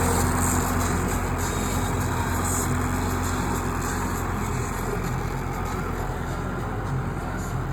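Tractor engine running steadily, slowly getting quieter.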